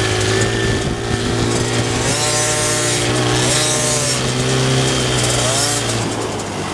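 Dirt bike engine running and revving, its buzzing pitch rising and falling several times over a steady low drone.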